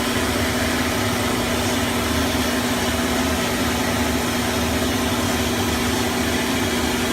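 Vapor blasting cabinet running: a steady, even hiss of the blast over a constant motor hum.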